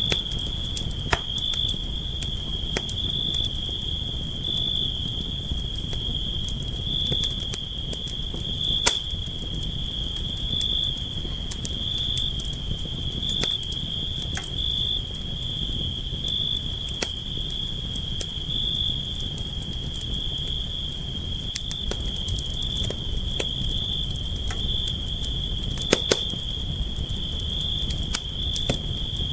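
Campfire crackling, with scattered sharp pops over a steady low rumble of burning wood, and a continuous high-pitched insect trill running over it.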